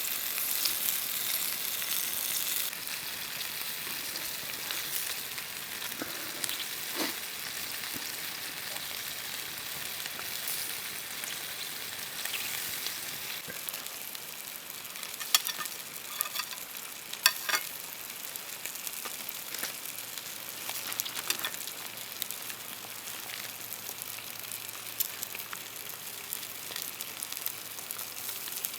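Food frying in a pan, a steady sizzling hiss that is louder for the first couple of seconds. A few sharp clicks come about halfway through.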